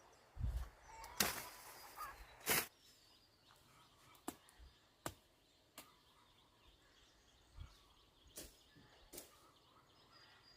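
Irregular sharp knocks, about eight over ten seconds, the loudest in the first three seconds, with faint bird chirps behind them.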